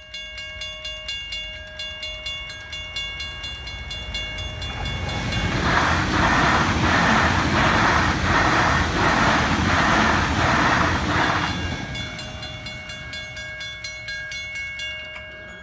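Level crossing bells ringing at a steady pace of about two strokes a second. From about five seconds in, a Sydney Trains Waratah double-deck electric train passes over the crossing, its wheels clacking rhythmically and drowning out the bells. It is gone by about eleven seconds, and the bells carry on.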